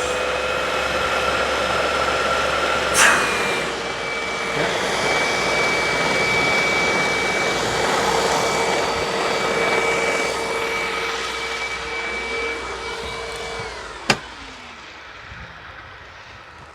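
Hoover WindTunnel upright vacuum's motor running steadily under a suction test, with a steady whine at two pitches and a knock about 3 seconds in. Near the end the whine drops and stops, there is a sharp click, and the motor winds down.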